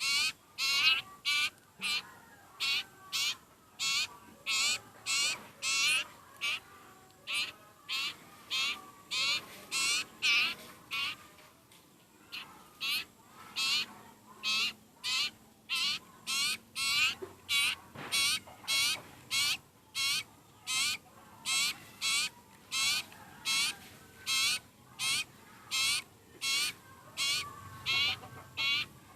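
Sirpu (sirtu) bird calling over and over in short, high, trilled notes, about two a second, the insistent calling of a hungry bird.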